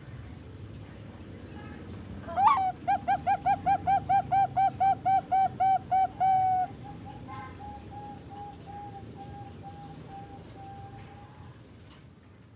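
Young Bangkok-type zebra dove (perkutut) cooing: a rising opening note, then a fast, even run of about fifteen short coos ending on a longer one. A fainter, steadier run of coos follows, over a low steady hum.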